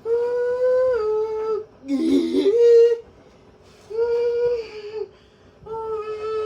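A voice holding long, slightly wavering notes, four of them with short gaps between.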